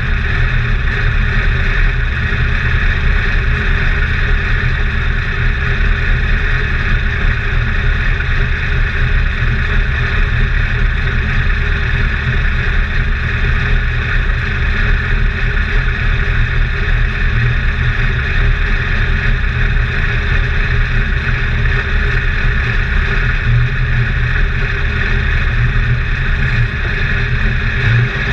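Race car engine idling steadily, heard from inside the cockpit.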